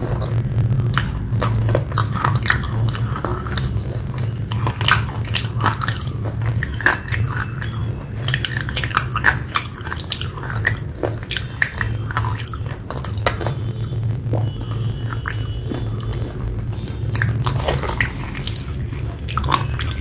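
A mouth chewing a wet red clay paste close to the microphone: a dense, irregular stream of soft crunches and wet clicks, over a steady low hum.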